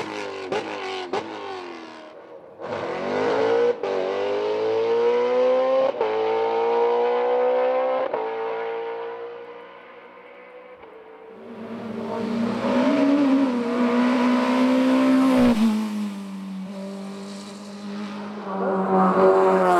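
Race car engine at full throttle accelerating hard up a hillclimb course, its note rising and then dropping at each upshift, three times in quick succession, before fading away. About halfway through, an engine note grows loud again and holds a fairly steady pitch.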